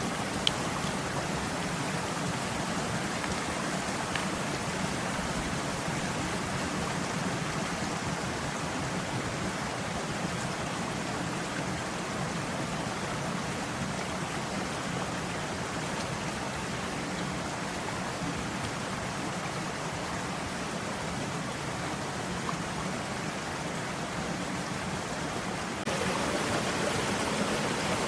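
Running water of a small forest stream, a steady rush with no break, stepping up slightly in level near the end.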